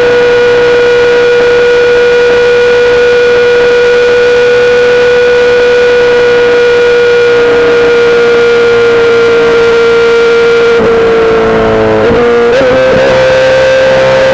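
2008 Yamaha R6's inline-four engine through a full SC-Project exhaust, running at a steady engine speed with a strong, even note. Late on the pitch sags and wavers briefly, then begins to rise as the bike speeds up.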